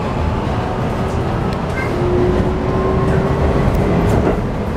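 Toei 5500 series electric train accelerating, heard from inside the passenger car: a steady rumble of wheels and running gear, with a faint traction-motor whine slowly rising in pitch.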